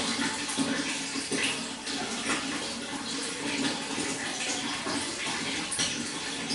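Flowing water running and splashing steadily, with many small irregular splashes.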